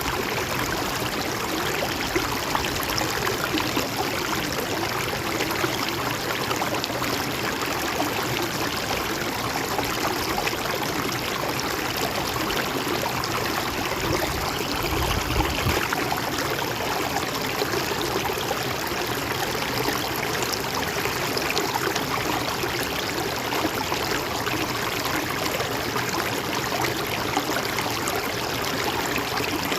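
A river flowing steadily, an even rush of water with gurgling. About halfway through there is a brief low rumble lasting a second or two.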